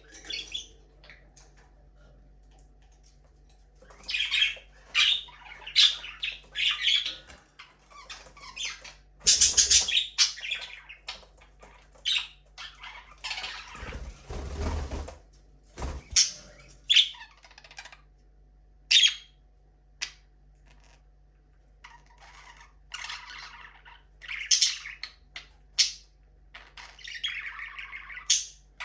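Budgerigars chirping and squawking in short, scattered calls. Two louder noisy bursts break in, about a third of the way in and again around the middle.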